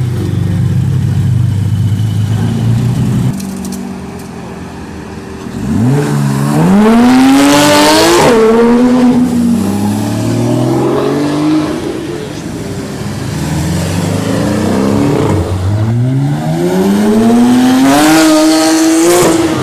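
Porsche sports car engine idling, then accelerating hard: about six seconds in the engine note climbs steeply, dips at a gear change and climbs again, and a second long rising run of revs comes near the end.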